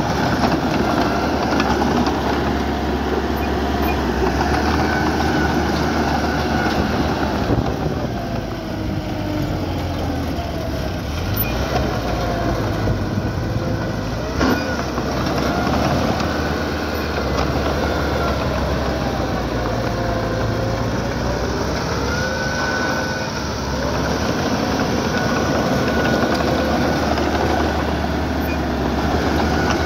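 Small crawler bulldozer at work: its diesel engine runs steadily while the steel tracks squeal and clank, with a single sharp knock about halfway through.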